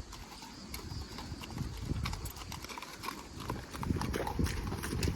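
Horse hooves clopping at a walk: an uneven run of sharp hoof strikes and dull thuds, louder from about four seconds in.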